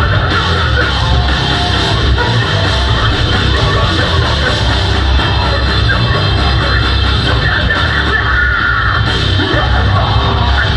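Live metalcore band playing loud: distorted guitars, bass and drums with screamed vocals.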